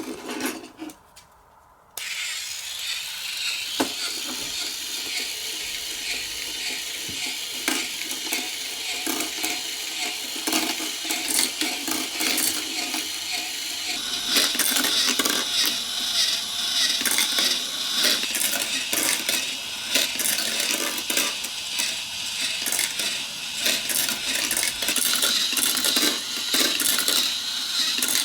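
Many marbles rolling and clattering down a block marble run: a few separate clicks, then from about two seconds in a dense, continuous rattle of small hard clicks that grows busier from about halfway.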